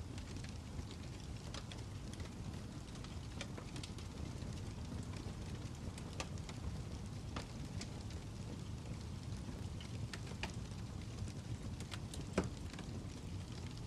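Fire crackling: a steady low rumble with irregular sharp pops and snaps, one louder pop near the end.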